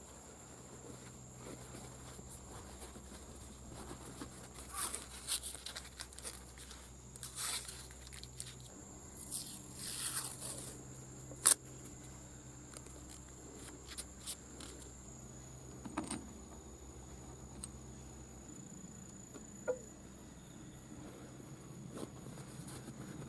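Workshop handling sounds from working on a motorcycle cylinder head: scattered scrapes and light clicks of tools and metal parts, with one sharp click about halfway through. A steady high-pitched tone and a low hum run underneath.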